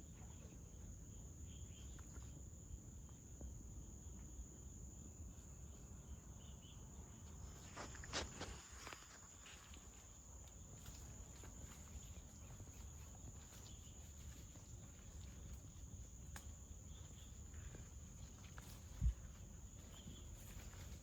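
Crickets chirring in one steady high-pitched drone over a faint low rumble, with a few soft clicks about eight seconds in and a short thump near the end.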